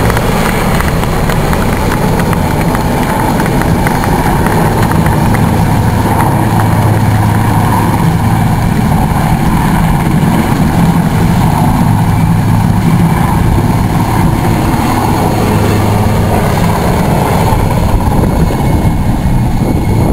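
IAR 330 Puma helicopter running, its twin Turbomeca turboshaft engines and rotor making a loud, steady low drone.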